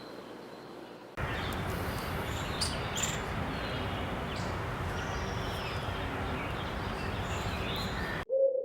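Outdoor ambience with a steady noise bed and scattered bird chirps, starting about a second in. It cuts off suddenly near the end into a steady electronic tone.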